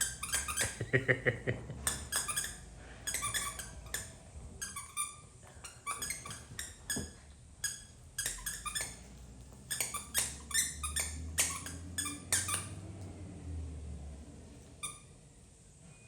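Small puppies yipping and squeaking in short, high-pitched bursts as they play-fight, thinning out near the end.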